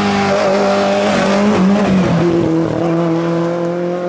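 Rally car engine running hard, its note dropping about two seconds in as the car slows, then holding steady, over tyre noise.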